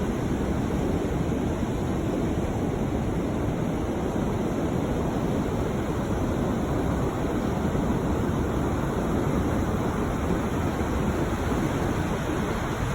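Ocean surf washing onto a beach: a steady, unbroken rush of noise.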